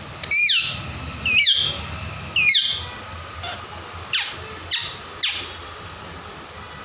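Parrot squawking: three loud, drawn-out calls in the first three seconds, then four shorter, sharper ones, over a steady low background hum.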